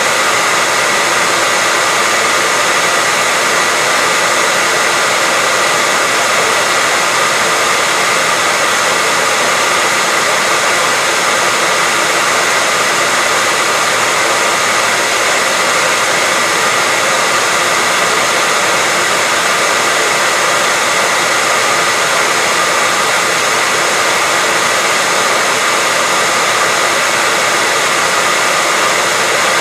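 Electric hair dryer running steadily, a constant airy whoosh with a faint high whine that doesn't change.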